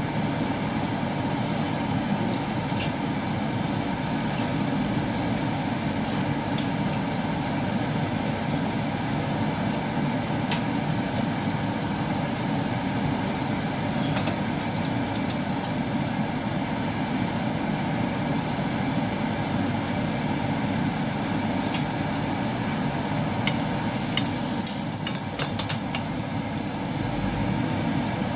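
Minced garlic sizzling softly in oil in a frying pan over a steady low rumble, with faint scattered crackles. Near the end the sizzling grows louder and more crackly as strips of marinated chicken drop into the hot pan.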